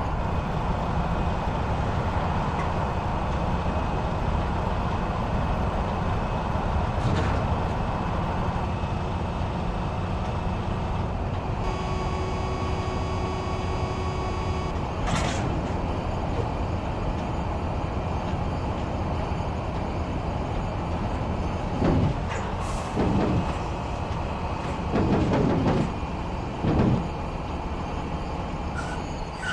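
Truck running with a steady engine and road rumble. A held electronic tone sounds for about three seconds near the middle, and several louder short surges and knocks come near the end.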